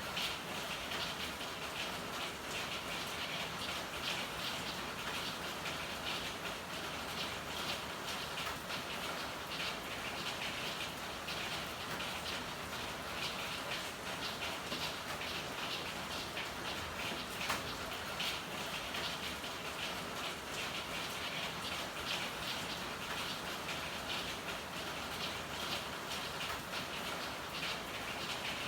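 Steady rain falling, a dense even hiss full of fine individual drop ticks, with one sharper tap a little past the middle.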